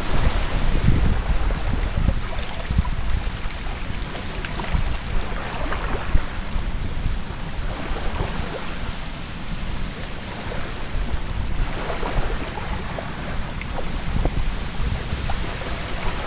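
Wind buffeting the microphone with a heavy, gusting rumble over the steady rush of surf breaking on the beach, swelling now and then as waves break.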